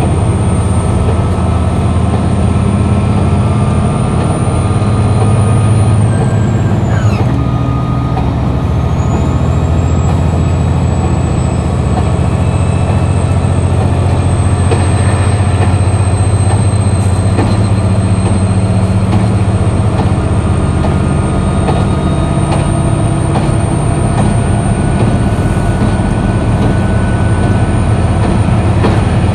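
KiHa 261 series diesel railcar's engine running under way: a steady, loud low drone, with a thin high whine that dips in pitch about six seconds in and climbs back a few seconds later.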